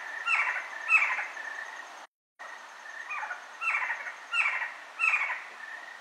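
Eastern screech-owl screeching: short calls that fall in pitch, repeated about every two-thirds of a second and broken by a brief silence about two seconds in. These are the screeches it gives to defend its nest or fledglings.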